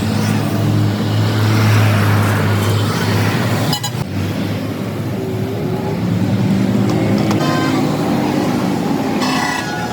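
Heavy road traffic with vehicle engines running steadily. A horn sounds briefly about seven seconds in and again near the end.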